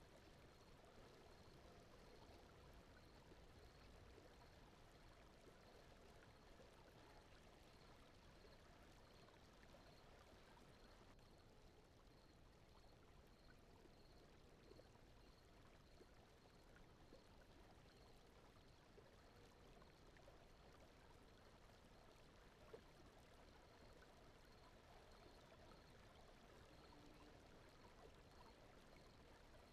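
Very faint, steady brown noise, with a faint high tick repeating about once a second.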